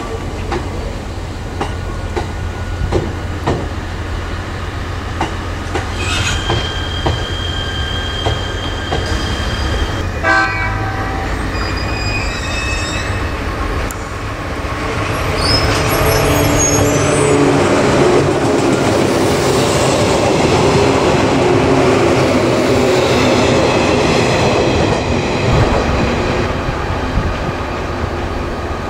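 E127 series electric train rolling past: wheels clicking over rail joints, with high steady squeal tones from about six seconds in. About halfway through, a louder, denser train noise takes over, opening with rising whines.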